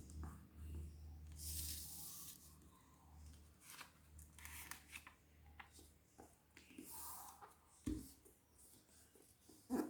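Sheet of paper rustling and being creased as it is folded by hand: short scattered rustles with a couple of sharper taps, one about eight seconds in and one near the end, over a faint low hum.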